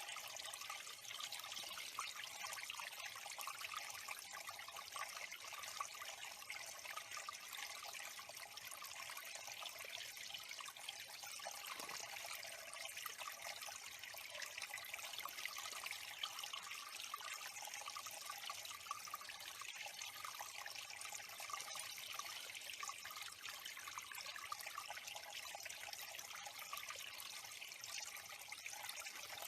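Water trickling steadily into a small backyard bird pond.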